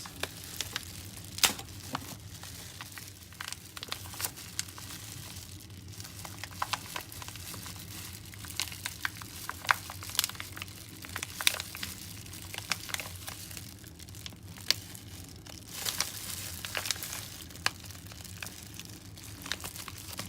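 Irregular crinkling and crackling as a dried mackerel cat treat and its packaging are handled and broken apart by hand, with sharp snaps scattered throughout, over a steady low hum.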